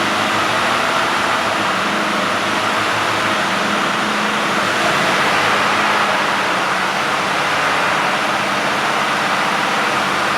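Mercedes-Benz Actros 2545 truck's straight-six diesel engine idling steadily.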